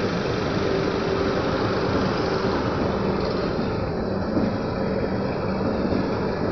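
Indian Railways LHB passenger coaches rolling past on the rails: a steady rumble and rattle of wheels and bogies, with a faint steady hum underneath.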